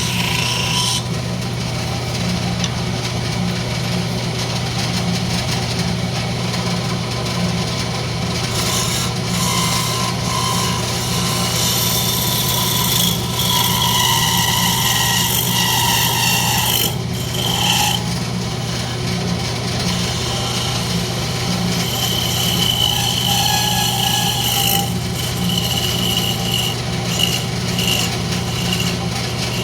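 Wood lathe running with a steady hum while a turning tool cuts the spinning rosewood, a scraping sound that swells and fades as the tool is worked, with brief high squeals now and then.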